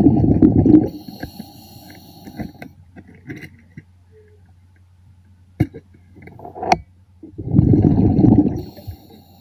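Underwater scuba breathing: a rumbling burst of exhaled bubbles at the start and again about seven and a half seconds in, each followed by a faint high hiss, over a steady low hum.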